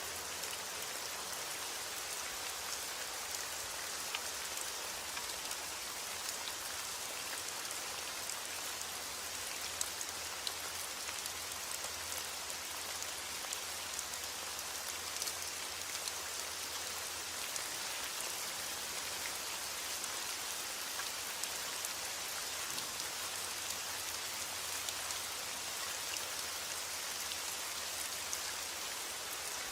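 Steady heavy rain: a dense, even hiss of falling rain with many individual drops ticking on a surface, over a low steady rumble.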